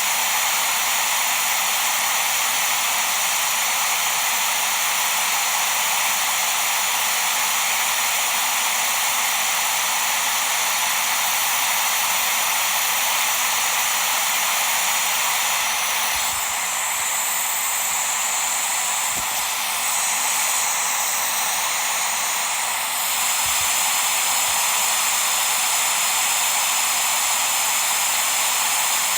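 Steady white-noise hiss played as a baby sleep sound, even and unbroken, weighted toward the higher pitches with little bass. Its upper part shifts slightly between about 16 and 23 seconds in.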